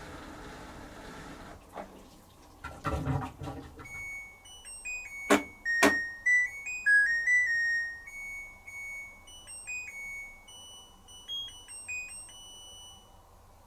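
LG TurboWash 360 washing machine at the end of its cycle: its running noise dies away in the first two seconds and a few knocks follow, then it plays its end-of-cycle melody of electronic beeps for about nine seconds, signalling that the program is finished. Two sharp clicks come near the start of the tune.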